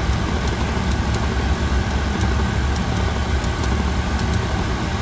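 Steady low drone of an aircraft's engines heard inside the cockpit on final approach, with faint scattered ticks.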